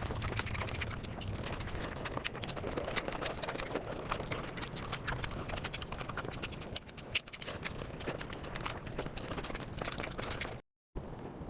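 Close-miked eating sounds played at five times speed: chewing and mouth noises turned into a dense run of rapid clicks and smacks. There is a brief dropout to silence near the end.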